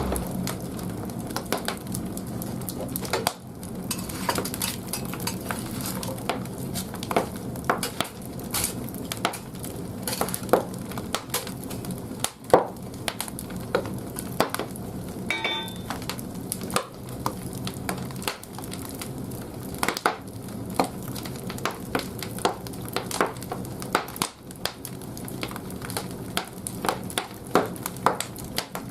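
Firewood burning in the firebox of a wood-fired bathhouse boiler: irregular crackling and popping over a steady low hum.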